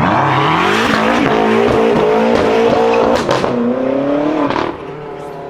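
BMW performance car accelerating hard. The engine note climbs steeply over the first second, holds high with brief breaks, then falls away sharply near the end.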